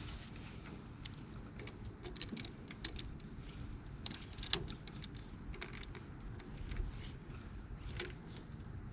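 Light metallic clicks and clinks of hand tools against metal engine parts, irregular, with several sharp ones between about two and five seconds in and one more near the end.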